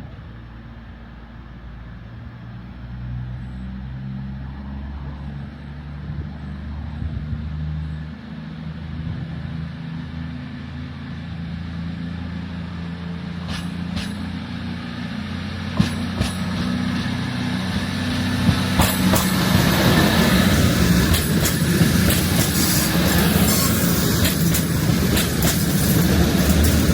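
A passenger train approaching and running through the station, growing steadily louder: a low hum at first, then wheels clicking over rail joints from about halfway, building to a loud rush of wheel and rail noise with rapid clicks over the last several seconds.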